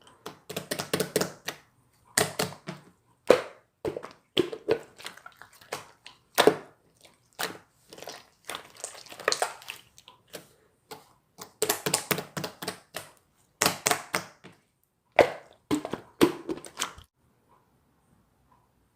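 Slime being squeezed and poked by hand, giving bursts of sticky crackles and small pops. The bursts stop about two seconds before the end.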